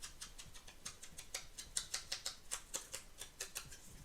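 Quick, light taps of ink being dabbed onto the edges of paper, several taps a second, coming thickest in the middle.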